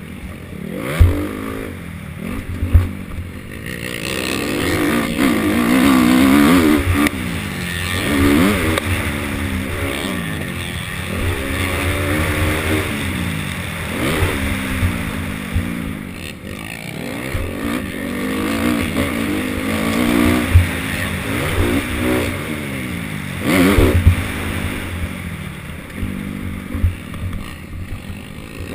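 Honda CRF250R four-stroke single-cylinder motocross bike engine revving hard and backing off over and over, its pitch rising and falling every second or two as it shifts and rides around the track. There is a low rumble, with a few sharp thumps.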